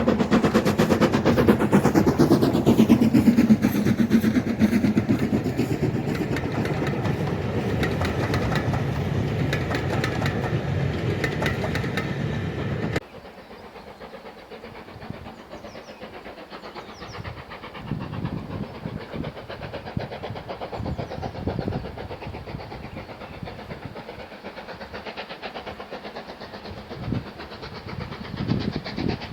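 A train running past close by, its rushing noise sweeping down in pitch as it goes. It cuts off suddenly about halfway through to quieter, uneven railway sounds with scattered low thumps.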